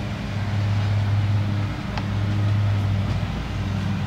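Steady low electrical hum with a constant rushing noise behind it, and a light click about two seconds in.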